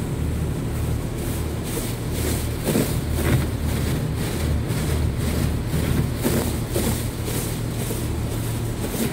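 Automated touchless car wash spraying high-pressure water over a car. The hiss pulses about three times a second over a steady low hum.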